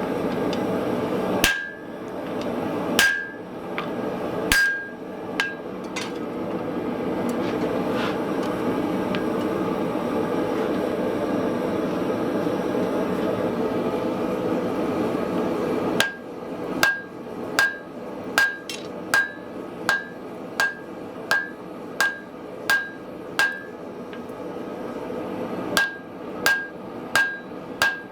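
A forge running with a steady roar, broken by a few hammer blows. About halfway through, a steady run of hammer blows on hot iron over an anvil begins, about one and a half a second, each with a short ring. The blows pause briefly and then resume near the end.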